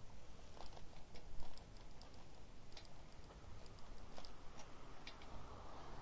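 Bicycle being ridden: light, irregular clicks and rattles over a steady low rumble.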